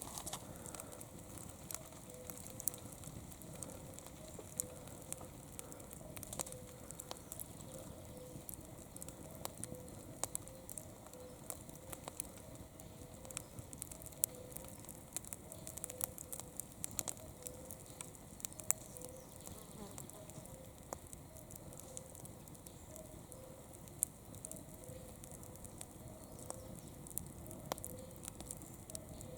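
Campfire burning, wood crackling and popping in sharp irregular snaps over a steady hiss. A faint low call repeats evenly in the background.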